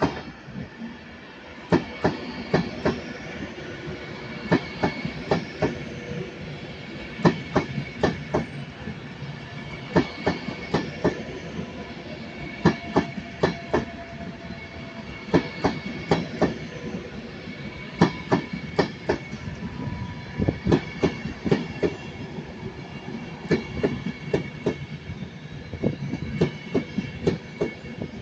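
Avanti West Coast Class 390 Pendolino electric train passing, its wheels knocking over rail joints in pairs, one pair about every two and a half seconds as each coach's bogies cross, over a steady rolling rumble and a faint high whine.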